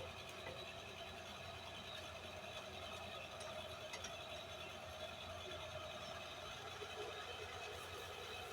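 Faint steady background hum and hiss, with no distinct strikes or other events.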